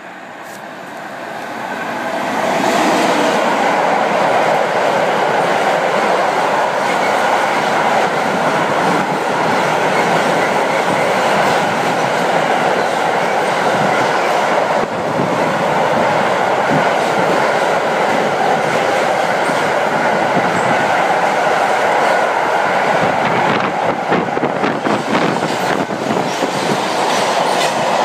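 Freight train running through the station: the noise builds over the first few seconds as it arrives, then a long steady rumble and clatter of wagon wheels on the rails, with sharper clacks over the rail joints near the end.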